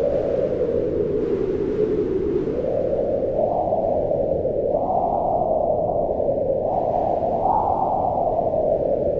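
Strong wind howling steadily, its hollow pitch sinking and then swelling up again several times as the gusts come and go.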